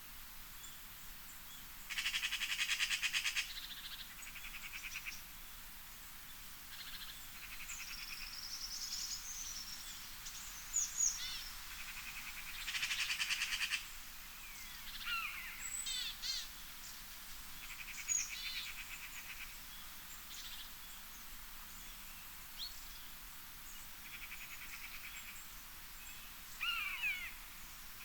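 Wild birds singing in the woods: repeated fast trills lasting a second or so, and short sweeping chirps between them.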